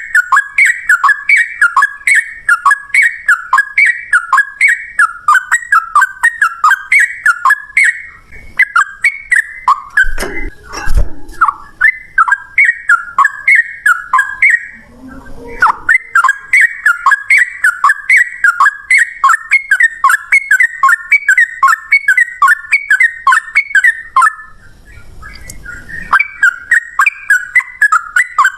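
Yellow-vented bulbul (trucukan) singing a long, fast run of sharp repeated chirping notes, about two or three a second. The song is broken by a couple of short pauses, and there is a brief low thud about ten seconds in.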